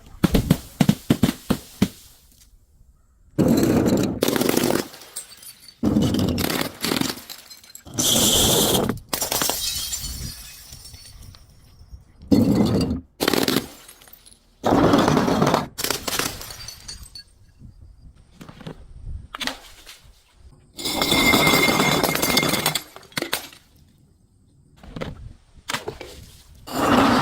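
Glass breaking and being crushed: a series of sudden crashes, some trailing into a second or more of crunching shatter, with short quieter gaps between them.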